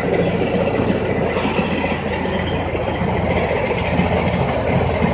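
Tractor-driven mini rice mill running steadily while milling paddy: the tractor engine's low hum under the continuous rattling din of the milling machine.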